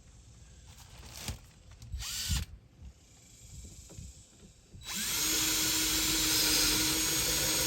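Power drill running: a short burst about two seconds in, then a steady run under load that starts about five seconds in.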